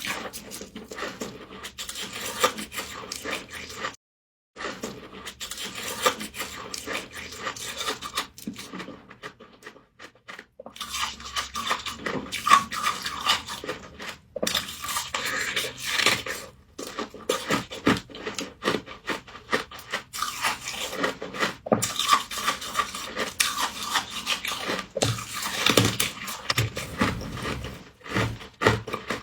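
Close-miked crunching and scraping of humidifier frost being bitten and chewed: a dense, continuous run of small crackles, broken by a brief total dropout about four seconds in.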